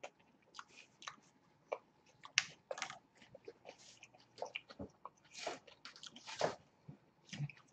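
Close-miked chewing and biting of a McDonald's fried pie and burger: irregular mouth clicks and smacks, with a few louder bites near the middle and toward the end.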